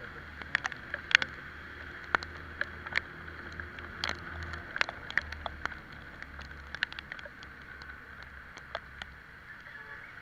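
Italika Vitalia 125 scooter's single-cylinder engine running low under a wet hiss while riding in the rain, with irregular sharp ticks of raindrops striking the microphone.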